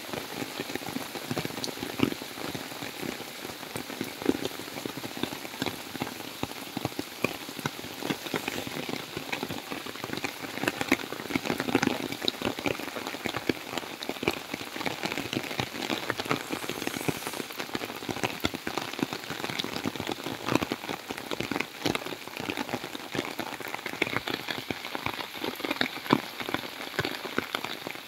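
Heavy rain falling steadily on a field, a dense patter with many sharp close drop hits.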